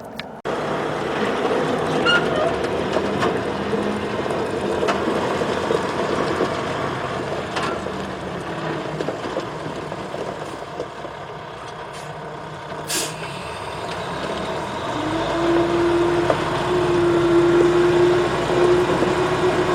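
Heavy diesel engines running steadily, with a short hiss of air about 13 seconds in, likely a truck's air brake. About 15 seconds in, a steady engine hum joins and holds.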